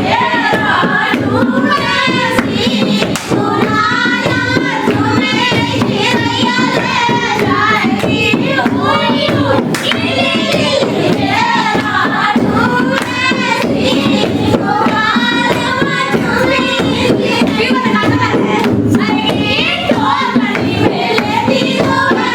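Dehati folk song (lokgeet) sung in a wavering, ornamented voice, with hand clapping keeping the beat throughout.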